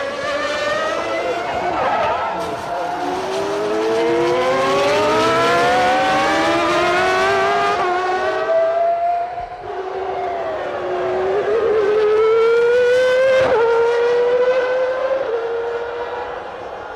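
A 1995 Formula One car's engine at full throttle, its pitch climbing steadily for several seconds, falling back near the middle as the car slows, then climbing again. There is a single sharp crack about thirteen seconds in.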